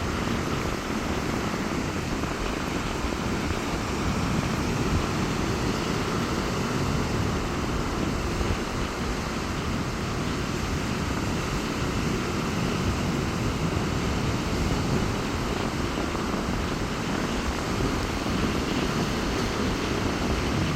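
Rough sea surf breaking on a beach in strong wind: a steady, unbroken low rumble, with wind noise on the microphone.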